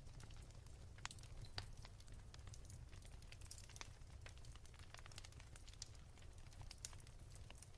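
Wood fire crackling softly: faint, irregular small pops and snaps over a low steady rumble.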